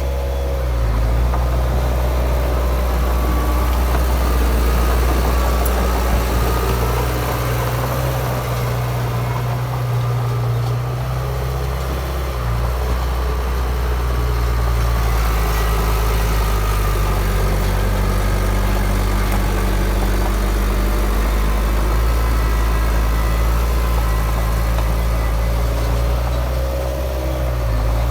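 Crawler bulldozer's diesel engine running steadily with a low, continuous note that shifts in pitch a few times as the machine works.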